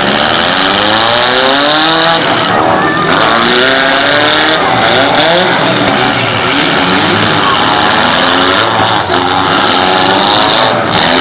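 Several demolition derby cars' engines revving hard at once, their pitches rising and falling over one another in a loud, continuous din.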